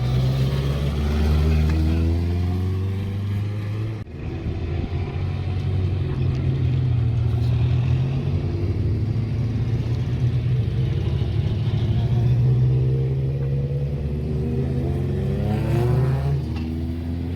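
British Touring Car race cars' turbocharged four-cylinder engines revving hard and changing up through the gears as the cars go past, with a brief break in the sound about four seconds in and a rising rev near the end.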